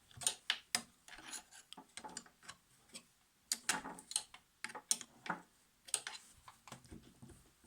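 Irregular small metallic clicks and taps of a screwdriver working the two small screws out of the motor on a vintage Necchi Supernova sewing machine, with a short pause about three seconds in.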